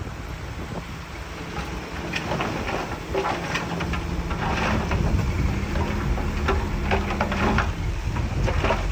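Diesel engine of earthmoving machinery running steadily while loose stone clatters and rattles in many quick irregular clicks, as stone is tipped or pushed.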